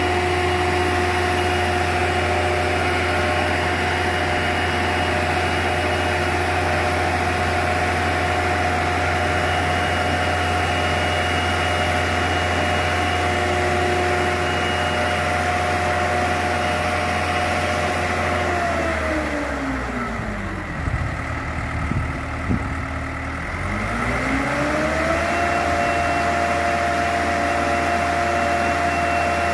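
An engine running at a steady speed, then slowing right down just after the middle and speeding back up to the same steady speed a few seconds later.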